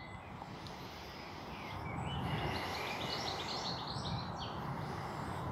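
Birds chirping over a steady outdoor background noise, with a quick run of high chirps in the middle.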